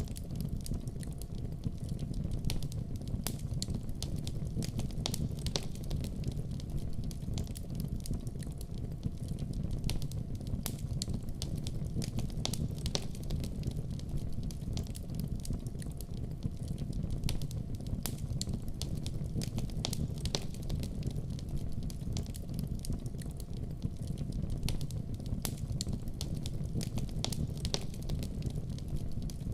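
Fireplace fire crackling: frequent sharp pops and snaps, irregularly spaced, over a steady low rumble of burning.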